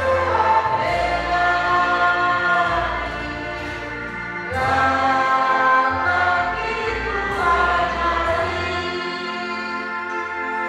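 A choir singing a slow hymn in harmony, with long held notes over a steady low bass line and a new phrase starting about four and a half seconds in.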